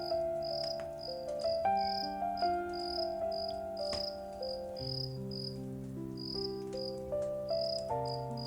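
Crickets chirping in a steady rhythm over soft, slow music of held notes, with a few sharp crackles from a wood fire.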